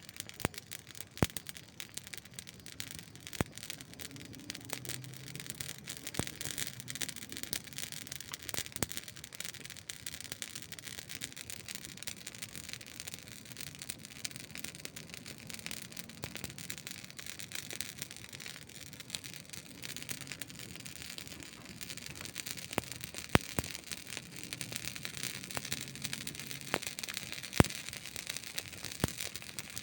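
Wood campfire crackling: irregular sharp pops and snaps over a steady hiss of burning, with a few louder pops late on.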